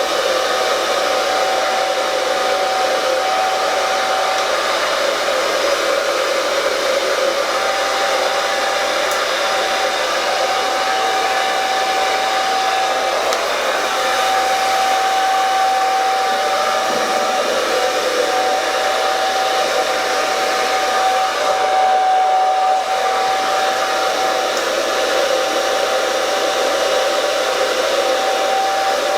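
Handheld hair dryer running steadily while blow-drying hair: a continuous rush of air over a steady motor whine. The air rush dims briefly about three-quarters of the way through.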